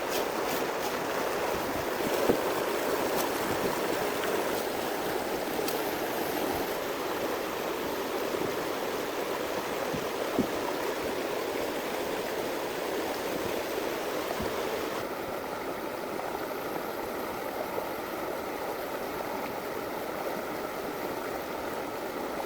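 Steady rushing of running water, with a few faint knocks.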